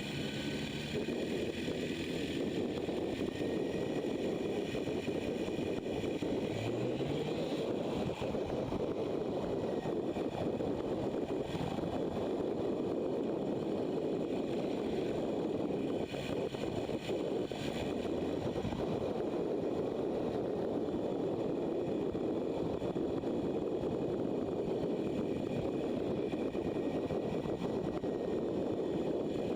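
Motorcycle riding at speed: steady wind and road rush with the engine running underneath, rising briefly in pitch about seven seconds in.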